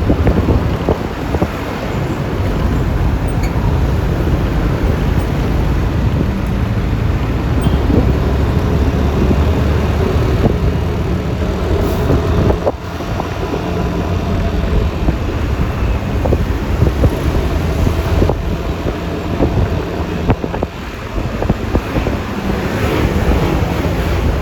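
Yamaha Lexi LX 155 scooter riding along a road: a steady mix of engine, tyre and traffic noise with wind rushing over the microphone. The noise dips briefly about halfway through.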